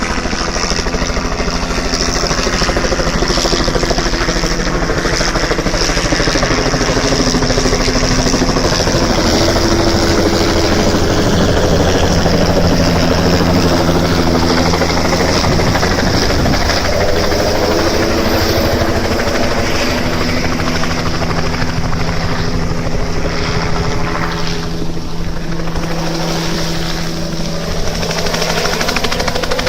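Helicopter approaching to land, its rotor and engine running loudly and steadily, with the pitch of the rotor and engine tones shifting as it comes in and manoeuvres.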